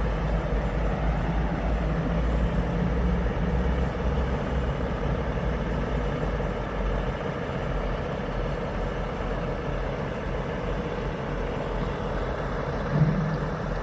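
Truck engine running steadily, a low continuous rumble, with one brief louder bump near the end.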